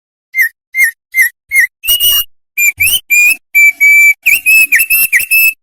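Opior songbird singing loudly: four short whistled notes that dip in pitch, then a quick run of clear, high whistles, some sliding upward.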